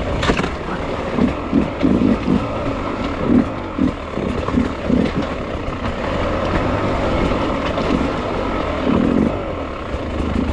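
Beta hard enduro dirt bike engine revving in short, irregular bursts over a steady running note as the bike picks its way slowly through loose, rocky ground.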